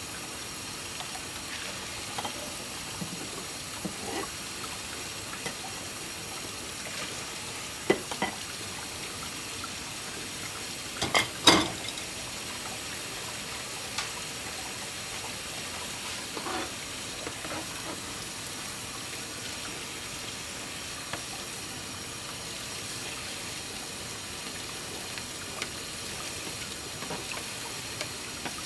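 Tap water running steadily into a kitchen sink while dishes are washed by hand, with scattered clinks and knocks of dishes and a louder clatter near the middle.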